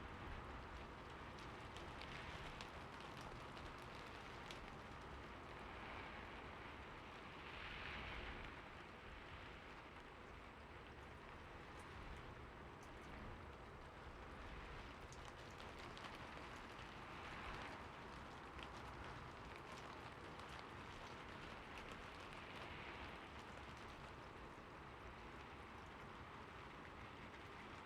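Faint, steady rain: an even hiss with scattered individual drops ticking, swelling slightly now and then.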